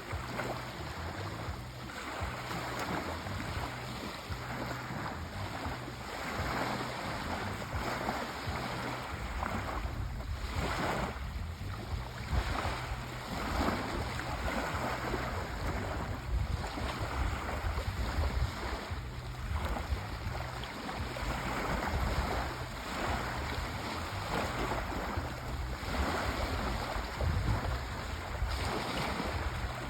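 Sea waves washing onto a shore, a steady surf that swells and falls back every couple of seconds, with a deep rumble underneath.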